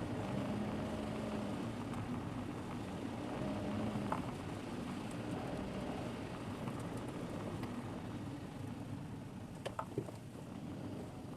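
Car driving, with steady engine and road noise picked up inside the cabin by a dashcam microphone. The engine's hum swells and fades, and a few short knocks come about four seconds in and again near the end.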